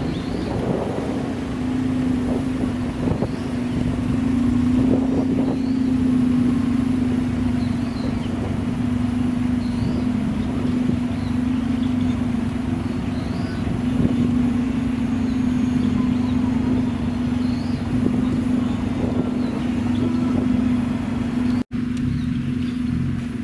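A classic car's engine running steadily at an even speed, with a constant hum and rough low rumble. The sound cuts out for an instant near the end.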